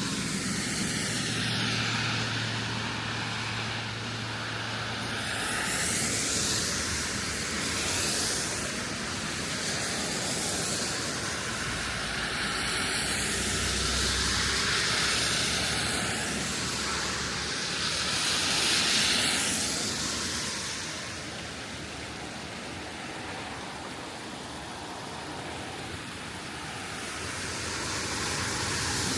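Steady rush of water from a stream swollen by overnight flash-flood rain, rising and falling slowly in loudness.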